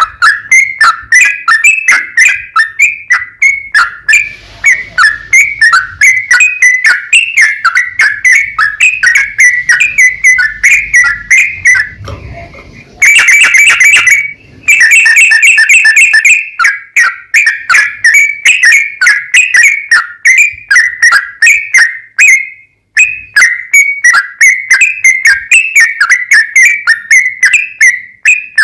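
Yellow-vented bulbul (trucukan) singing a long, rapid-fire song: a loud, unbroken string of short whistled notes repeated several times a second. It breaks off briefly about twelve seconds in, then comes back with a louder, harsher stretch.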